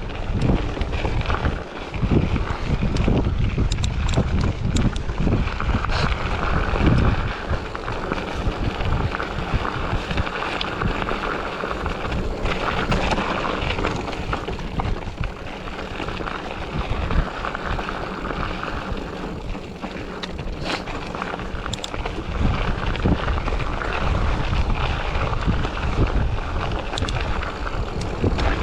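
Wind buffeting the microphone of a moving bike, a gusty rumble over a steady hiss of road and tyre noise, with a few faint clicks.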